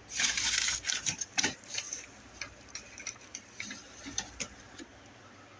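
A short burst of rustling, then a run of light, irregular clicks and taps, typical of something being handled.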